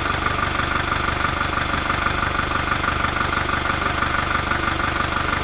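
A machine's engine idling steadily, with a steady whine over the running.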